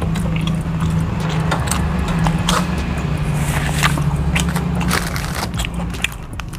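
Close-up chewing and crunching of rice and fried food eaten by hand, with many small mouth clicks and smacks, over a steady low rumble that fades near the end.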